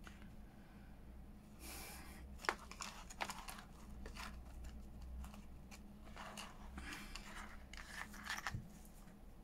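Faint handling sounds of crafting: paper rustling and small clicks, likely from a small metal chain and charm being fastened, over a steady low hum.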